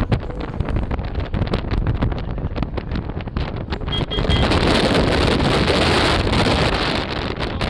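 Wind buffeting the microphone on top of a moving truck, over a low rumble of the ride. About four seconds in the wind grows louder and hissier.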